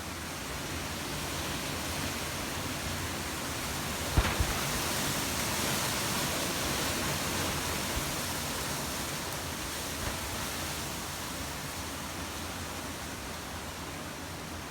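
Hurricane-force wind blowing steadily, swelling into a stronger gust about five seconds in. A sharp knock about four seconds in is the loudest moment, with a couple of fainter ticks later.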